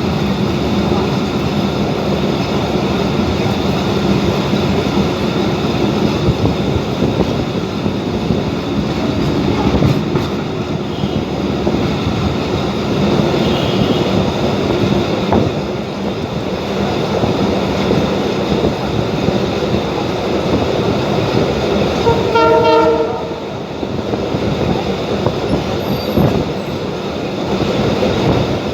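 Running noise of the Abu Qir commuter train heard from on board, wheels and carriage rumbling steadily along the track. About three quarters of the way through, a train horn sounds once for about a second.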